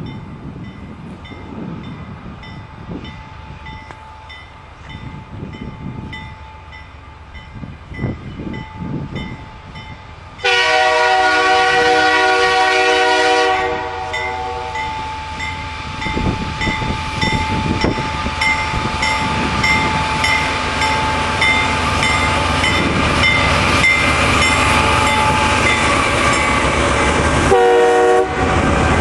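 CN freight train led by a GE C40-8M diesel locomotive approaching and passing, with a grade-crossing bell ringing steadily throughout. About ten seconds in the locomotive horn sounds one long multi-note blast of about three seconds, then the engine and wheel noise grows louder as the locomotives near. A short horn blast comes near the end.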